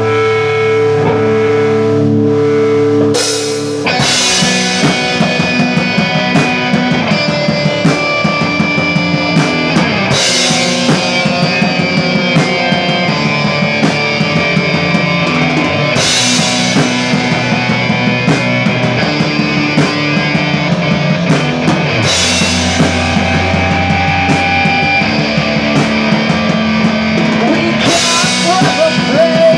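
Rock band playing an instrumental passage. It opens on held guitar notes, and about four seconds in the drum kit and full band come in, with a cymbal crash roughly every six seconds.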